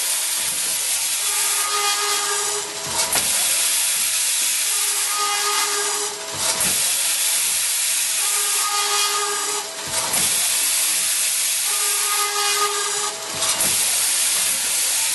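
SIMEC Ciclomec 1000 2R twin-head automatic circular saw cutting machine running through repeated cuts on metal tube. It gives a steady hissing cutting noise with high ringing tones, broken by a short dip about every three and a half seconds.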